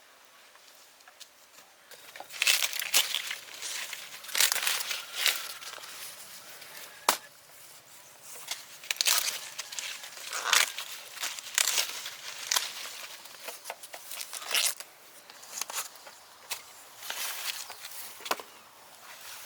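Irregular bursts of rustling and tearing, something dry being handled and pulled apart, coming every second or so.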